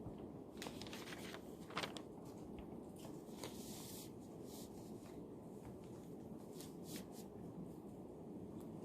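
Quiet library room tone with a steady low hum, overlaid by scattered small rustles and taps of paper and pencil at a desk, the sharpest tap about two seconds in and a brief longer rustle near four seconds.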